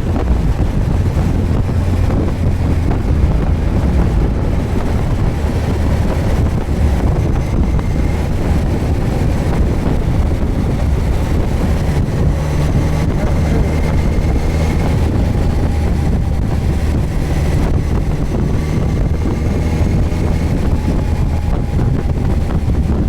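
Suzuki GSX1250FA motorcycle's inline-four engine running steadily while riding, with heavy wind noise on the microphone.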